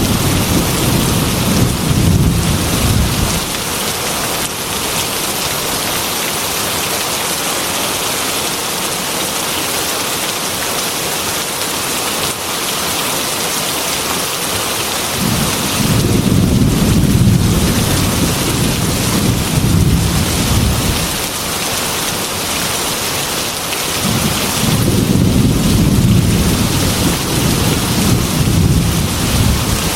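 Heavy rain pouring steadily on a metal roof, with rolling thunder rumbling three times: at the start, about halfway through, and again near the end.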